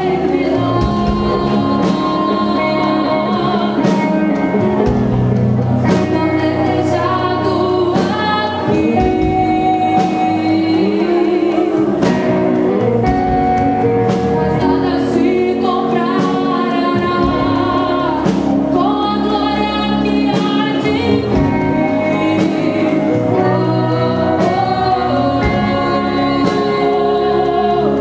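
Gospel worship music: voices singing held lines over a band with bass and steady drum beats.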